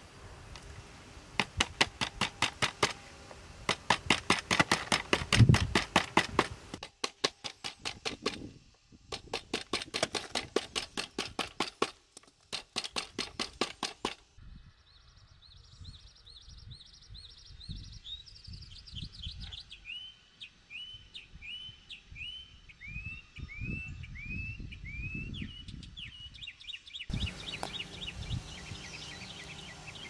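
Quick, regular strokes, about four or five a second, for roughly the first half, stopping abruptly. Then a bird sings a string of short, repeated chirping notes.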